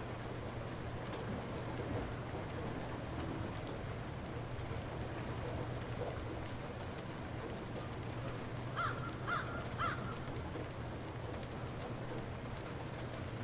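Steady light rain falling, with a faint low hum underneath. About nine seconds in, a bird gives three short calls in quick succession.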